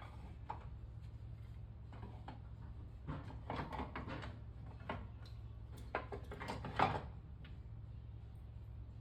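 A series of knocks, clatters and scrapes, like wooden objects being handled and set down, over a steady low hum. The handling is busiest in the middle, with the sharpest knock near the end.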